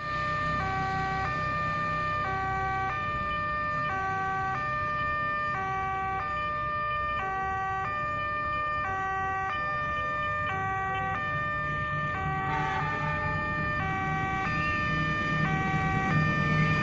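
Electronic two-tone railway level-crossing alarm, repeatedly alternating between a low and a high note about every half second. A train's low rumble grows louder near the end, as a freight train approaches.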